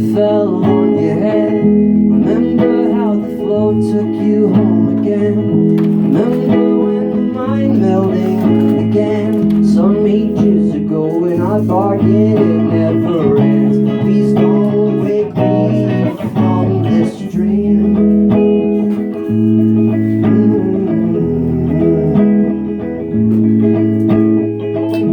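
Electric guitar music played live: a repeating chord progression, its bass note changing about every two seconds, with a bending melodic line over it, layered through a loop station.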